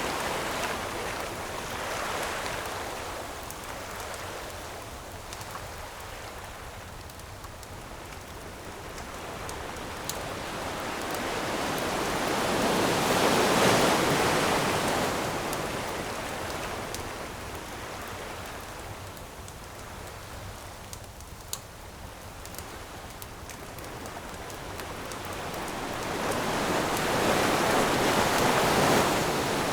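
Ocean waves breaking on a shore, swelling slowly and washing in twice, about fifteen seconds apart, with light crackles of a campfire and one sharper pop a little past the middle.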